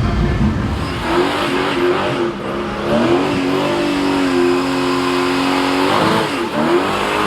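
A car engine revving, its pitch rising and falling several times, holding steady for about a second and a half in the middle, then rising and falling again near the end.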